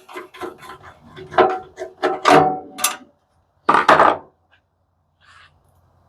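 Hand tools and loose parts knocking and scraping on the coffee machine's metal base as it is taken apart: a quick run of clatter and scrapes, then one louder scrape about four seconds in.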